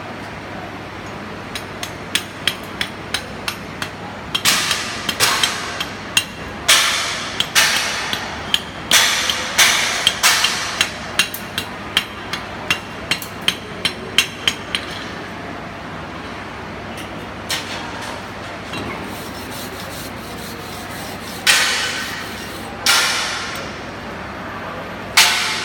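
Hammer striking metal in a quick series of sharp taps, two or three a second, each ringing briefly. The taps stop for several seconds, then come two louder, longer-ringing hits near the end.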